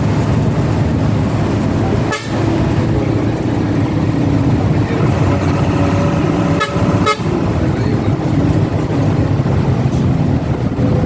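A bus engine and road noise heard from aboard a moving bus: a steady low drone, with a humming note held for a few seconds in the middle and a few brief dips in level.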